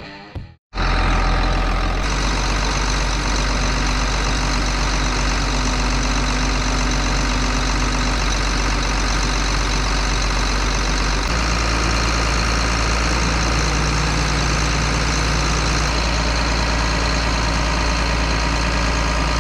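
A heavy vehicle engine running at a steady speed, its low note shifting slightly about eleven seconds in.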